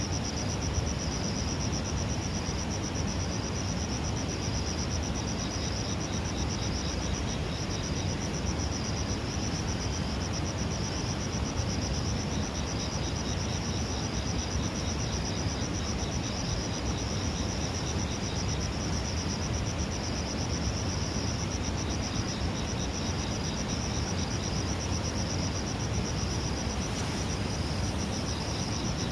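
Insects, crickets by the sound of it, trilling without a break: a high, fast-pulsing trill, with a second, fainter and lower trill joining in and dropping out, over a low, steady background rumble.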